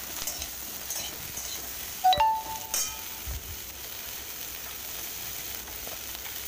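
Cauliflower florets sizzling steadily as they fry in oil in a kadai, with a few light spatula stirs at first. Two brief ringing knocks about two and almost three seconds in.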